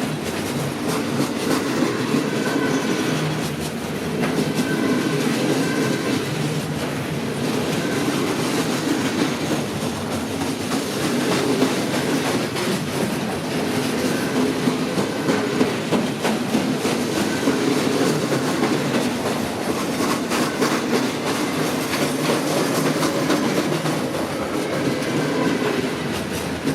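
Cars of a passing Alaska Railroad train rolling steadily by, their steel wheels clattering over the rails with constant clicks, and brief faint wheel squeals now and then.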